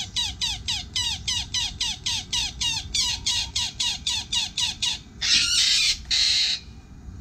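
Oriental dollarbird giving a fast, even series of harsh chattering calls, about five a second, each a short falling note. It stops about five seconds in, followed by two louder, harsh rasping sounds.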